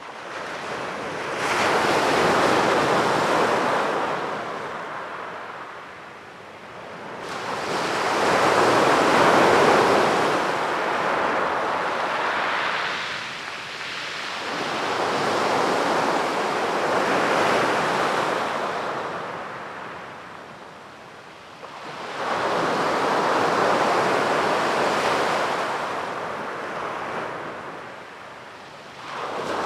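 Ocean waves breaking on a beach, one after another. Each wave swells into a loud rush and fades, about every seven seconds.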